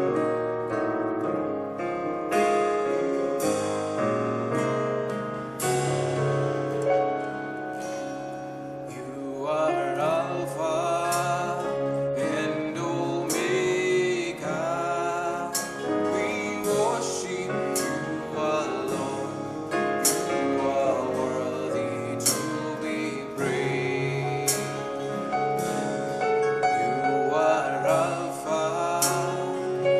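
Live gospel worship music: a keyboard playing chords, with voices singing from about ten seconds in and regular percussion hits through the second half.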